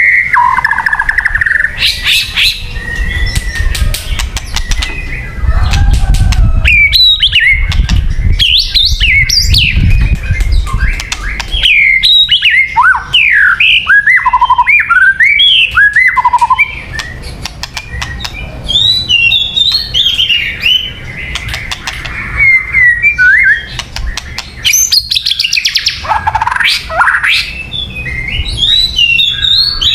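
White-rumped shama singing a loud, varied song of rich whistles, rapid chattering phrases and steep rising and falling notes. A low rumble runs beneath the song for several seconds in the first third.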